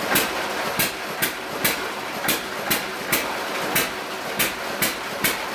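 1924 John Deere E-series hit-and-miss engine running under partial generator load, its firing strokes coming as sharp beats about twice a second with slightly uneven gaps. It gives a hit or two, then a miss: the governor is just starting to make it bark as the load rises.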